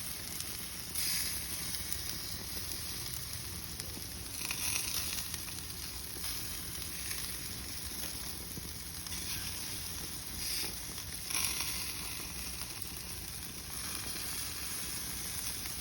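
Sauced chicken wings sizzling steadily as they cook, with a few brief louder swells of hiss.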